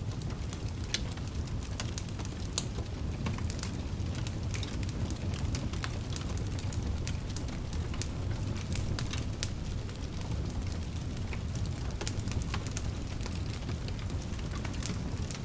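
Wood fire burning in a fireplace, a steady low rumble of flames with frequent irregular sharp crackles and pops from the burning logs.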